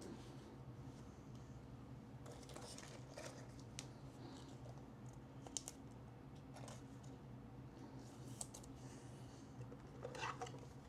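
Faint scattered clicks and plastic rustling of trading cards and card holders being handled, with a louder cluster of clicks near the end. A low steady hum runs underneath.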